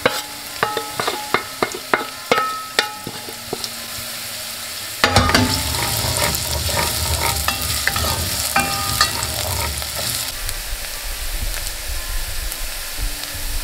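Chopped onion and garlic frying in olive oil in a deep pot, the base of a soffritto. A wooden spatula scrapes the onion off a metal bowl and stirs, making a run of clicks and short ringing knocks for the first few seconds. From about five seconds in comes a louder, steady sizzle, with a few more knocks.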